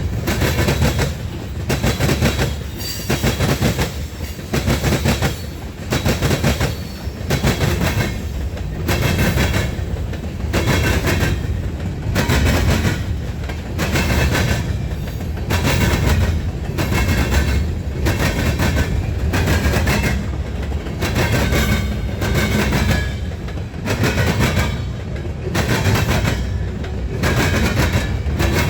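Railroad cars rolling past, their wheels clacking over rail joints in a steady rhythm about once a second.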